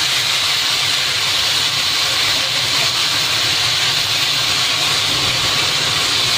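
Finely chopped onion frying in hot oil, a steady hiss with no let-up.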